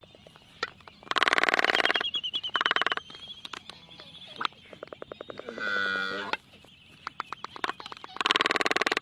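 Animal calls: bursts of rapid, pulsed rattling calls, with one drawn-out call that bends in pitch about halfway through.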